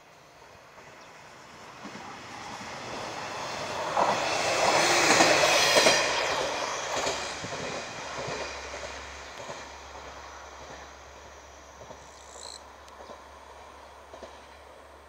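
A train passing close by on the line. Its running noise and wheel clatter build to a peak about four to six seconds in, then fade as it draws away.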